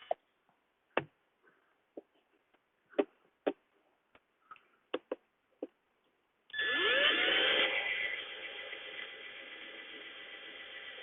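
A power drill stops. About six seconds of scattered clicks and knocks from handling the drill and the wood follow. Then the drill spins up with a rising whine about six and a half seconds in and runs on steadily while drilling holes in a wooden birdhouse.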